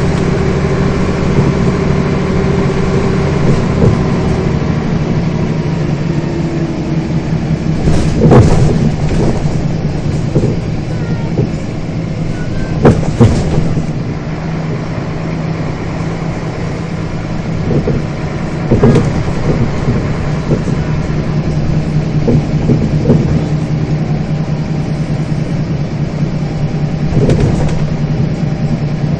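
Scania bus engine running under way, heard from on board, a steady drone whose pitch drops about six seconds in. Several sharp knocks and rattles break through it, loudest about eight and thirteen seconds in.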